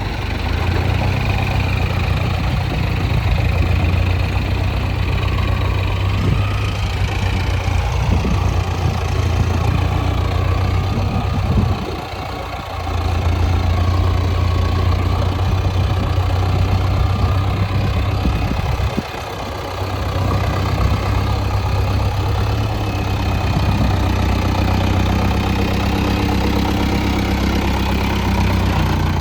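Diesel engines of an excavator and tractors running steadily with a deep hum while mud is loaded, dipping briefly in loudness about twelve and nineteen seconds in.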